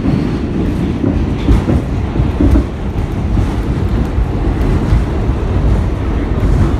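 R46 subway car in motion, heard from inside the car: a loud, steady rumble of wheels on rail, with faint clicks scattered through it.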